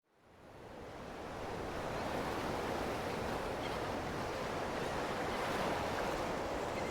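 Ocean surf: a steady wash of waves that fades in over the first second or so and then holds even.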